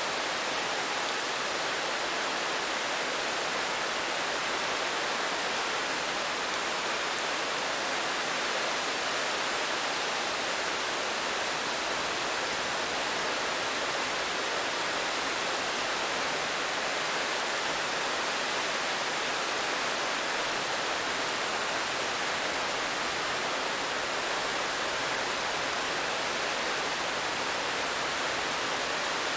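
Steady, even rain noise with no distinct drops or changes, a constant hiss centred in the mid and upper range.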